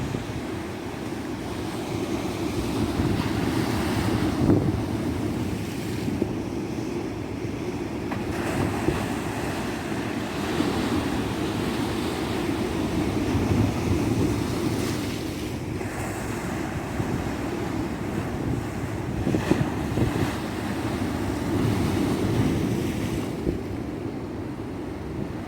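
Tropical ocean surf: waves breaking and washing onto a beach in a continuous rush that swells and eases every few seconds.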